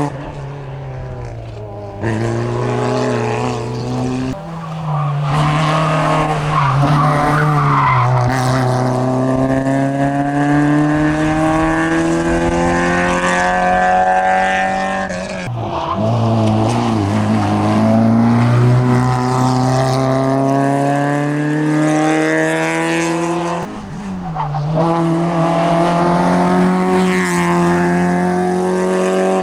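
Citroën Saxo rally car's engine at full throttle on a hillclimb run. The revs climb steadily through each gear and drop sharply at the shifts or lifts, about four times.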